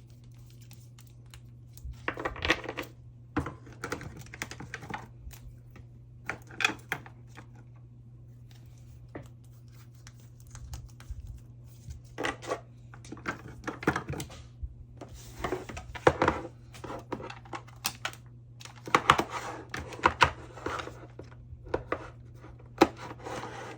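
Plastic photocard sleeves rustling and crinkling, with light clicks and taps, as cards are slid out of their sleeves and handled, in irregular bursts over a low steady hum.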